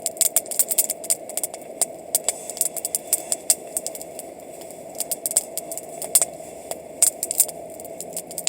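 Campfire burning, wood crackling and popping in quick, irregular snaps, over a steady faint hum.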